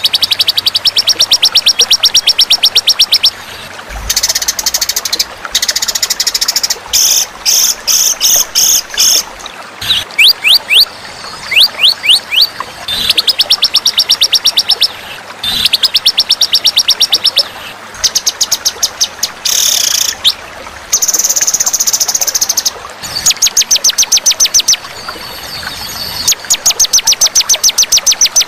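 Songbird masteran (training recording) of white-rumped shama and fighter-type songbirds: loud, high, very fast trills and chattering phrases follow one another with short breaks, a few with quick downward-swept whistles.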